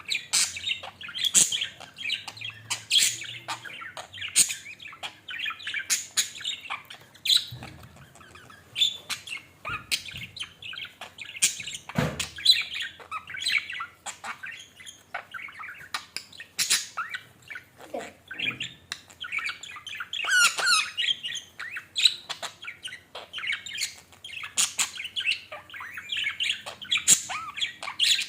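A pet budgerigar and parrot calling without pause: rapid chirps and short, sharp squawks, with a fast warbling chatter about two-thirds of the way through.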